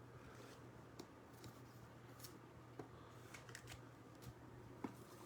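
Near silence: faint, scattered clicks of trading cards being slid and flipped by hand, over a low steady hum.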